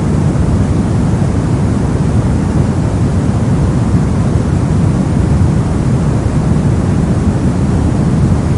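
Steady brown noise: a loud, even rumble-like hiss weighted heavily toward the low end, with no change or events.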